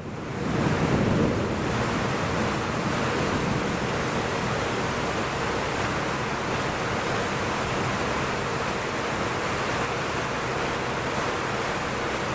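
Heavy tropical downpour: rain pouring steadily as a dense, even hiss, swelling up in the first second and then holding.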